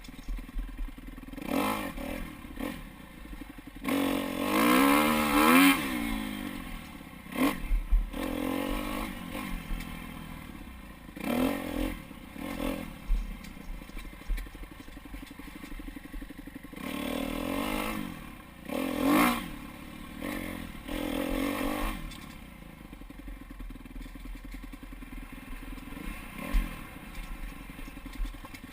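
Dirt bike engine revving up and down as it is ridden along a trail, with the loudest rev-ups about four to six seconds in and again around eighteen to twenty-two seconds. Clatter and scraping from the bike over rough ground run under it.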